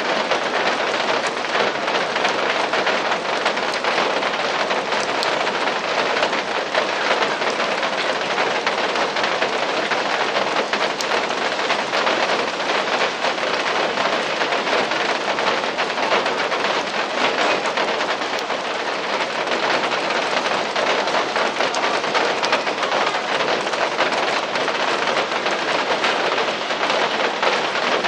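Steady rain falling, an even dense hiss flecked with many small drop ticks that holds unchanged throughout.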